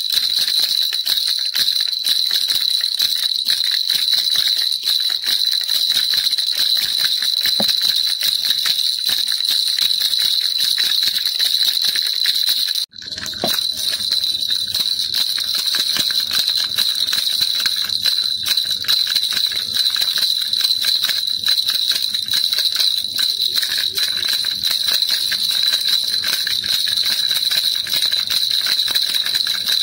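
Baby rattle shaken without pause, a dense bright jingling. It cuts out for an instant about 13 seconds in, then picks up again.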